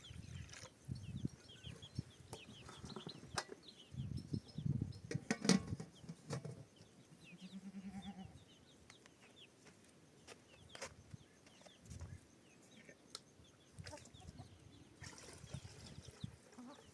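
Farm animals and birds around a camp: many short, high chirps throughout, a single short, low bleat about seven seconds in, and scattered knocks and rustles.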